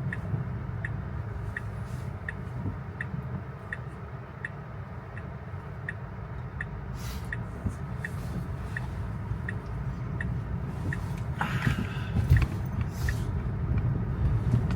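Turn-signal indicator in a Tesla's cabin ticking evenly, about three ticks every two seconds, over the low rumble of tyres on a wet road. The ticking stops about three-quarters of the way through, and a couple of brief swishes follow.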